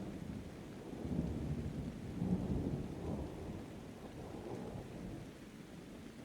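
Rolling thunder rumbling low and deep, swelling several times in the first few seconds and then slowly dying away, over steady rain.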